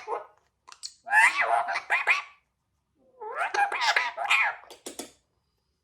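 Alexandrine parakeet chattering in two bouts of speech-like mumbling, with a few sharp clicks between them.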